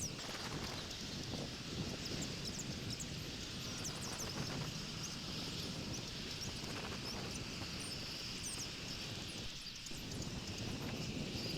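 Wind rumbling on a bald eagle nest-camera's outdoor microphone, with a steady hiss and many faint, brief, high chirps from birds scattered throughout.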